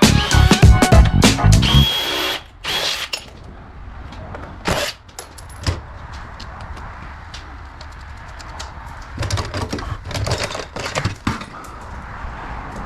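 Music with a beat that stops about two seconds in, followed by a power drill running in short bursts over a low steady hum.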